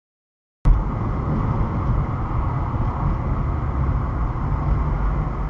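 Dead silence for the first half-second or so, then a steady low rumble of a vehicle driving: road and engine noise as a dashcam picks it up, with no crash or sudden impact in it.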